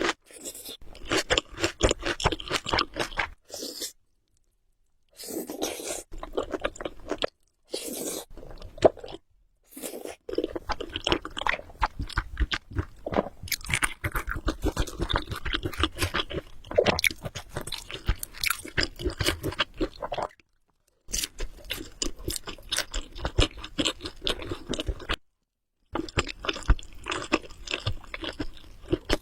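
Close-miked chewing of Samyang Buldak Carbonara spicy instant noodles: a dense run of wet, clicky mouth sounds. The chewing breaks off into short silences several times.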